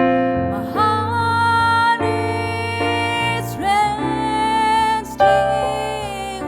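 Slow, soft jazz ballad from a small band: a woman's voice singing long, sliding notes over electric piano chords, bass and drums.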